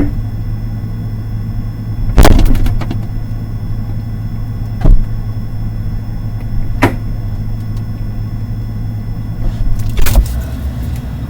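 A steady low hum with four sharp knocks or clacks. The loudest comes about two seconds in with a brief clatter after it, and the others are spaced a few seconds apart.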